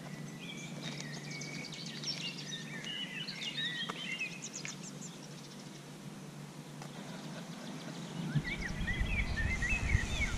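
Songbirds twittering in quick chirping phrases, in two spells with a pause in the middle, over a steady outdoor hiss. A low rumble comes in suddenly near the end.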